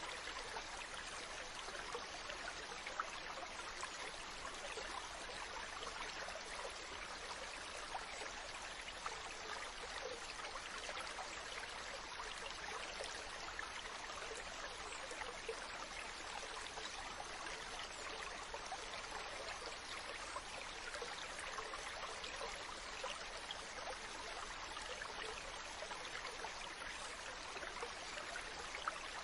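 Mountain stream running steadily over rocks: a continuous rushing of water with small splashes and bubbling through it.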